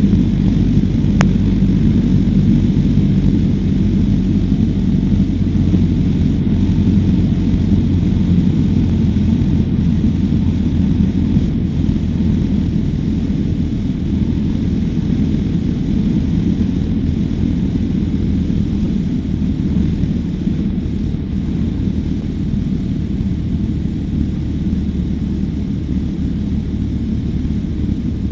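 Cessna 152's four-cylinder Lycoming engine and propeller droning steadily as heard inside the cockpit, slowly getting a little quieter.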